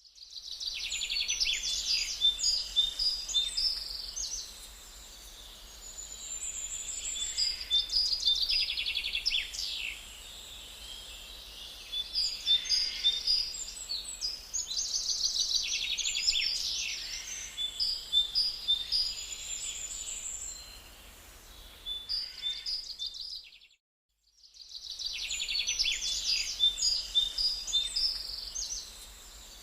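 Birdsong: repeated bouts of quick, high-pitched chirps and trills over a faint steady background noise. It breaks off briefly about four-fifths of the way through, then starts again.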